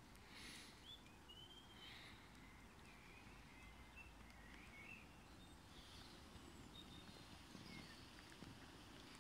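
Faint birdsong: scattered short, thin whistled notes that slide up and down in pitch, over a low steady background rumble.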